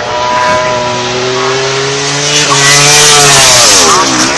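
Racing motorcycle passing at speed: the engine note climbs, is loudest about three seconds in, then drops steeply in pitch as it goes by and starts climbing again near the end.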